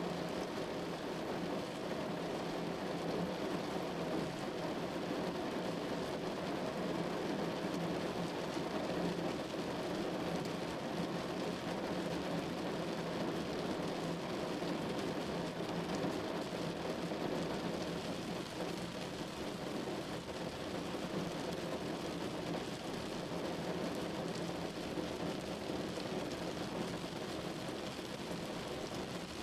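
Steady rain falling on a window pane, an even, unbroken patter.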